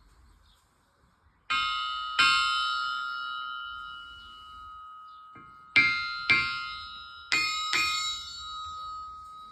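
A 426 kg anvil struck with a hammer, six blows in three pairs, each leaving a long, clear ring of several tones that slowly dies away.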